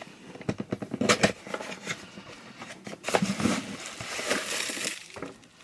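A small box being opened by hand and its packaging handled: a run of small clicks and taps, then rustling from about three seconds in.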